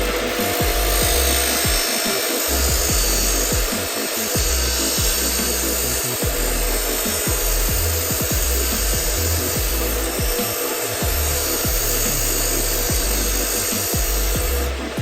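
A power tool working wood, a steady rough rasping noise with a faint motor tone, over background music.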